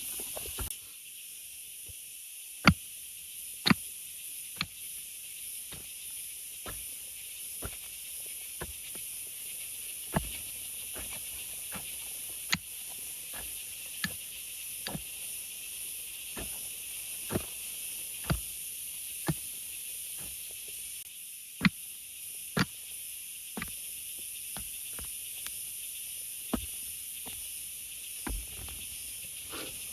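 Steady hiss of heavy rain, with sharp, irregular taps about once a second.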